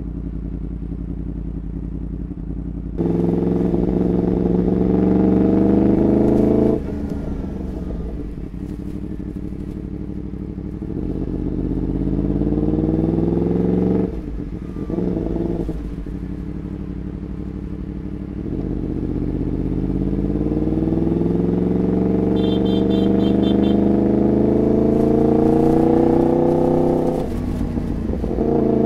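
Motorcycle with a Graves aftermarket exhaust idling, then accelerating three times: the engine's pitch climbs steadily each time and drops suddenly as the throttle closes.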